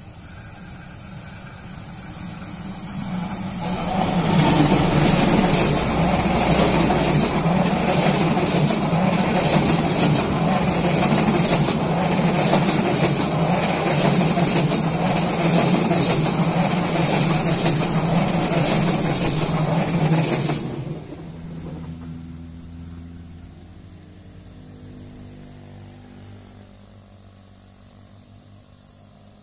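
Diesel-hauled KAI Lodaya passenger train approaching and passing close by. The locomotive and the wheels on the rails build up over a few seconds, then hold loud with a fast rhythmic clatter. About twenty seconds in the sound drops off sharply, leaving a fading rumble.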